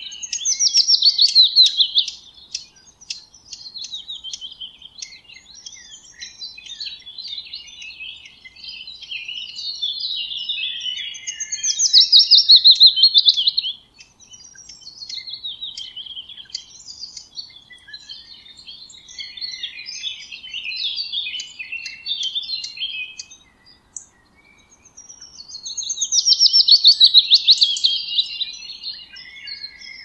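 Songbirds singing. Three loud, rapid trills sweeping downward, each about two seconds long, come about a second in, around the middle and near the end, with softer twittering and chirps between them.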